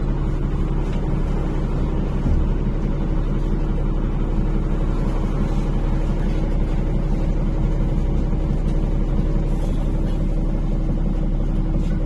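NefAZ-5299-40-52 city bus running steadily, heard from inside the cabin: a constant engine drone with road and cabin noise.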